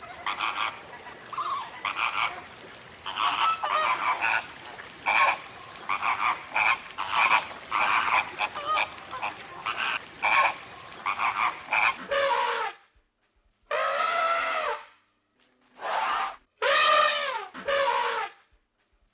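A dense chorus of short, repeated animal calls for about twelve seconds, then an abrupt change to a different animal giving separate long calls that rise and fall in pitch, with short silences between them.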